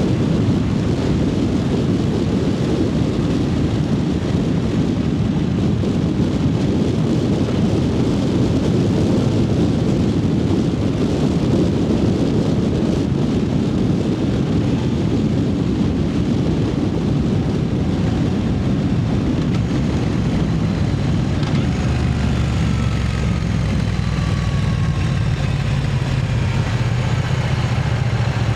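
Triumph Speed Twin 900's parallel-twin engine under way at riding speed, with heavy wind rush on the microphone. Toward the end the wind eases and the engine note comes through clearly, falling in pitch as the bike slows.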